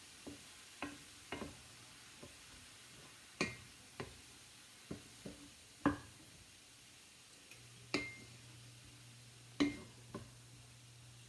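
A metal utensil tapping and scraping in a frying pan as pieces of pork are turned while they brown, about a dozen separate clicks and clinks, a few of them ringing briefly.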